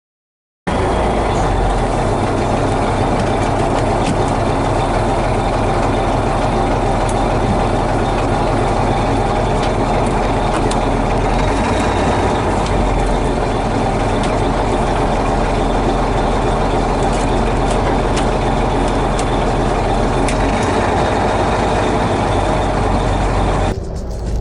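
Fishing boat's engine running steadily: a low, even hum under a constant loud rush of noise. It cuts in abruptly just after the start and drops away near the end.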